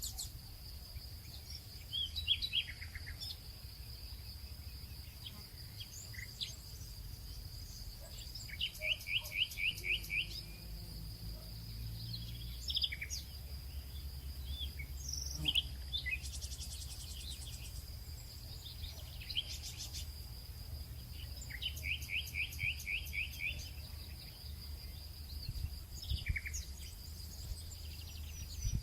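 Birds chirping and calling over a steady high insect drone, with a quick run of about eight repeated notes twice, about a third of the way in and again past the middle. A low rumble sits underneath.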